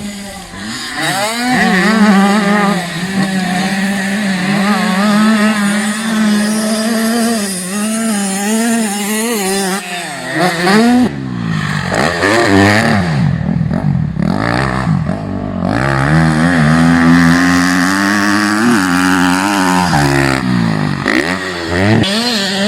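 Motocross bike engines running hard, the engine note wavering up and down with the throttle. About halfway through, several engine tones sweep down and back up, then one engine holds a steadier high note near the end.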